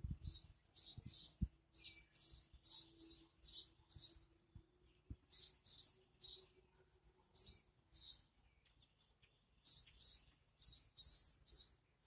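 Small birds chirping outdoors, a steady run of short high chirps about two a second. A few low bumps sound in the first second or so.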